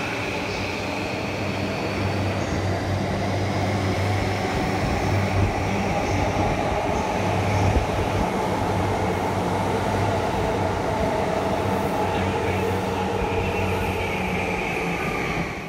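JR East E235 series Yamanote Line electric train pulling out of the station, its cars rolling past and picking up speed with a faint whine rising slowly in pitch from its traction motors, then running on into the tunnel.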